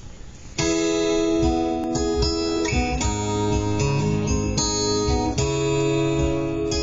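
Live instrumental song intro on keyboard and acoustic guitar, starting suddenly about half a second in, with held chords that change every half second or so.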